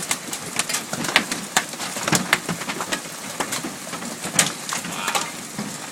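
Hailstones striking hard surfaces in irregular sharp clicks, several a second, over the steady hiss of rain as a hailstorm eases.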